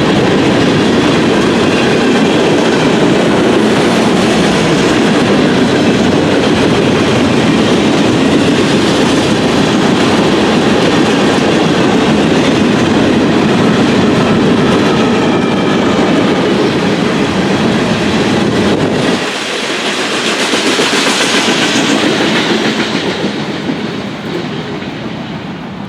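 Train cars rolling past with the wheels clacking over rail joints, a loud steady rumble and rattle. About three quarters of the way in the deep rumble drops away suddenly, and the sound then fades as the train moves off.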